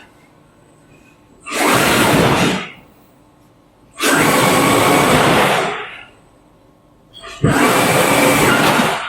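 Truck sounds in three separate bursts, each one or two seconds long with a sudden start and a fade, separated by quieter gaps. Each burst is a loud rushing noise.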